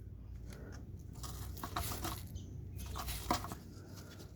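Light, irregular clicks, taps and rustling of tools and parts being handled by hand, with one sharper click about three seconds in.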